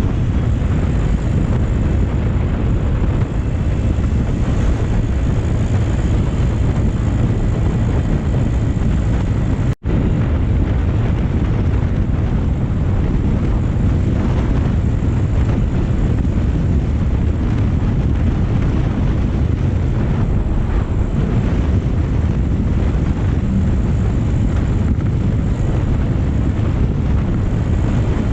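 Wind rushing over the microphone of a moving motorcycle, with the bike's engine running steadily underneath. The sound cuts out for an instant about ten seconds in.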